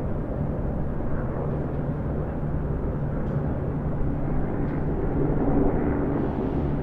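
Distant highway traffic: a steady low rumble of passing vehicles, swelling slightly near the end.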